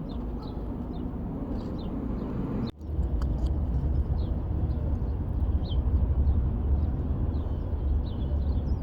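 Small birds chirping in short scattered notes over a steady low outdoor rumble. The sound cuts out for an instant about three seconds in, and the rumble is louder after that.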